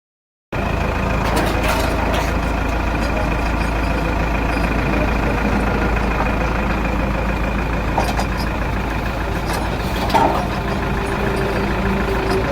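Truck engine idling steadily with a constant low rumble, coming in after a half-second dropout at the start, with a couple of small knocks near the end.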